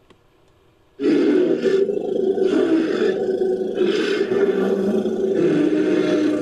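Invented Torosaurus creature sound effect: after about a second of silence, a long, deep roar starts suddenly and runs on, its pitch wavering.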